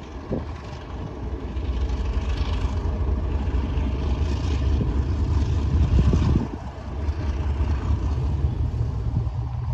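Diesel-electric freight locomotive running close by, a steady low engine rumble that dips briefly about six and a half seconds in.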